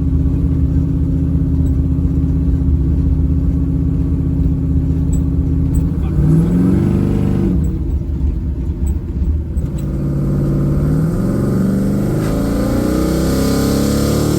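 No-prep drag car's engine running steadily, then revving up and back down about six seconds in, then accelerating with its pitch climbing in repeated steps toward the end, as in a test drive through the gears.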